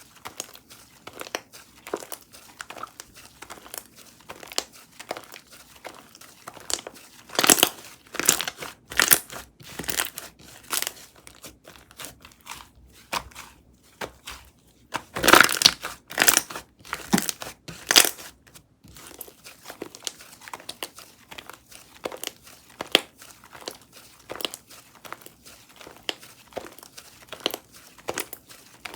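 Pistachio java chip frappe slime being squished and stretched by hand, giving off a continuous run of small sticky clicks and crackles. There are two louder bunches, about a third of the way in and again a little past halfway.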